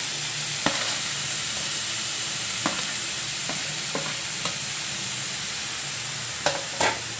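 Finely chopped cabbage and boiled soybean frying in hot oil in a non-stick pan, a steady sizzle, with a few sharp clicks of utensils against the pan.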